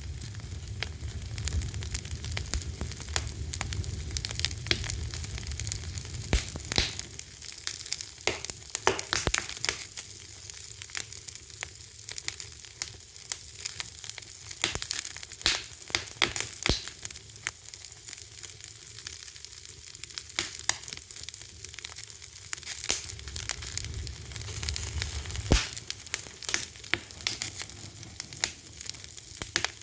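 Wood fire crackling: a steady hiss with irregular sharp pops and snaps scattered throughout, and a low rumble near the start and again about three-quarters of the way through.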